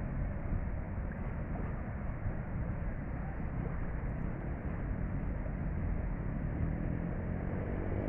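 Ferry boat's engine running steadily, a constant low-pitched noise with a faint engine hum showing toward the end.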